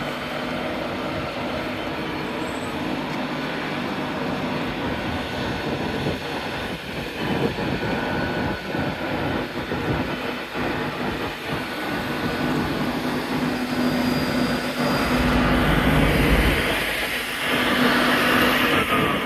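LNER InterCity 225 train (driving van trailer leading, Class 91 electric locomotive at the rear) running along the platform, a steady rumble of wheels on rail with a run of wheel clicks partway through and a louder low rumble about fifteen seconds in.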